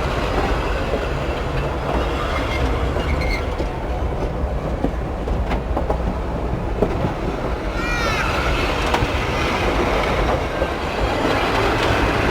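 Train cars rolling along the track: a steady rumble with clicks of the wheels over rail joints, and a brief high squealing glide about eight seconds in.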